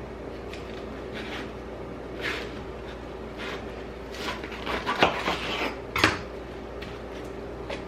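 Kitchen clatter: dishes and utensils being handled and set down on a counter, a few separate knocks and clinks, the loudest two about five and six seconds in, over a steady hum.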